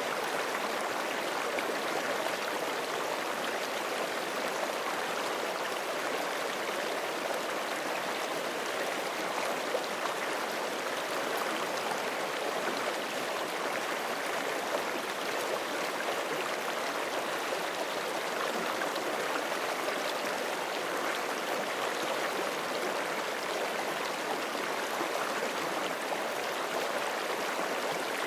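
Forest creek flowing over rocks: a steady, even rush of running water with fine splashing.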